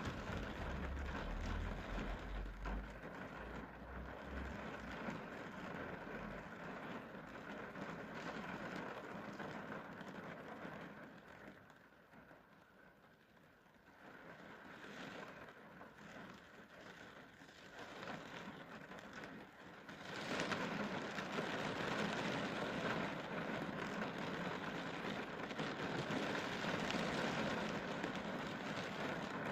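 Rain falling steadily. It eases off and then comes back, turning suddenly louder and heavier about twenty seconds in.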